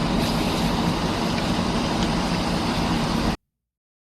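Steady street noise with vehicle sounds that cuts off suddenly about three and a half seconds in.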